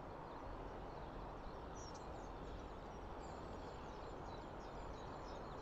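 Steady outdoor background noise, with high-pitched bird twittering coming in from about two seconds in.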